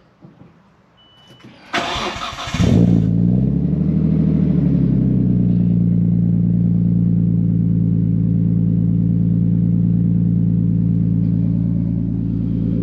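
Nissan Skyline R33's straight-six engine cold-started. A short beep about a second in, then the starter cranks for about a second, and the engine catches, revs briefly and settles into a steady idle.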